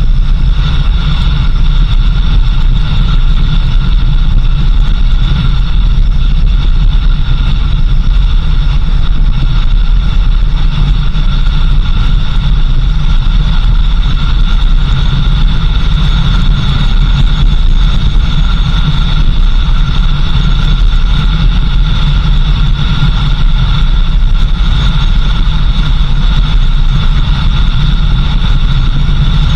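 Car engine and road noise of a vehicle driving steadily: a constant low rumble with a faint steady high whine over it.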